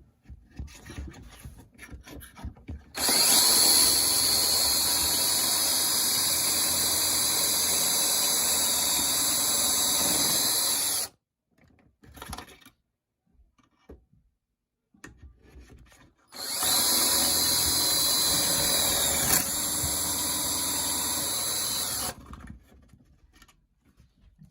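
Cordless drill boring pocket holes into the end of a 2x4 through a pocket hole jig. It makes two long steady runs, the first about eight seconds and the second about six, with a few light handling clicks before, between and after them.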